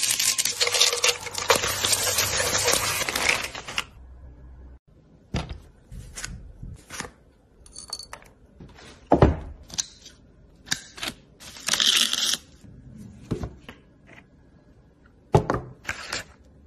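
Raw prawn crackers dropped into hot oil, sizzling loudly for about four seconds. After that, a run of sharp separate clicks and light clinks from small glass vials and a wooden case being handled.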